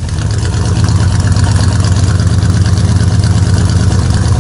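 A car engine idling with a steady, deep low rumble.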